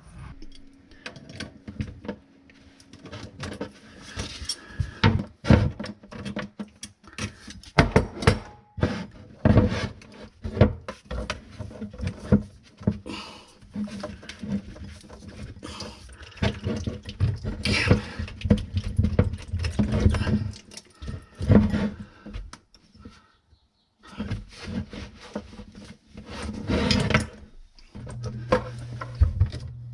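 Irregular knocks, clinks and rustling of objects being handled and moved around in a cabinet under a sink, with a low hum in the last two seconds.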